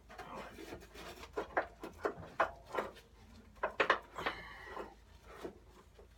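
Plastic mower-deck parts being handled while a cover is taken apart by hand: a run of irregular light knocks and clicks, busiest between about one and four and a half seconds in.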